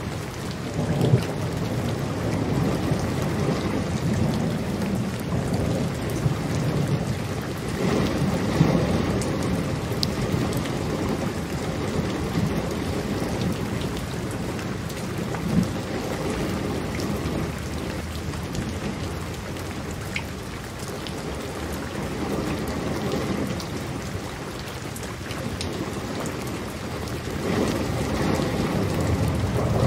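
Steady heavy rain, a dense hiss of drops with a few sharper drop hits. Underneath it runs a low rolling thunder rumble that swells and fades several times and grows heavier near the end.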